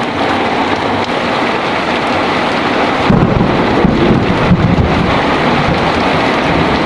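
Heavy rain pouring steadily. About three seconds in, a low rumble of thunder rolls in, loudest for a couple of seconds and then rumbling on under the rain.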